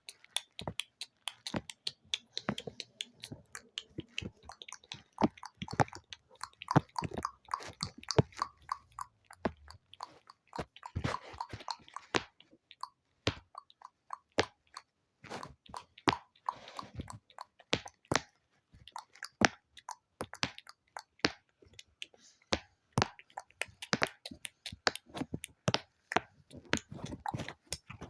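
Close-miked ASMR mouth sounds: rapid, irregular wet clicks and smacks, several a second.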